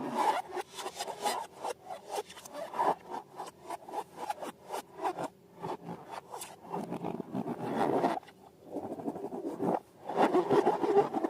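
Slime being squeezed and worked by hand: a wet rubbing noise broken by many irregular sticky clicks and crackles, louder near the end.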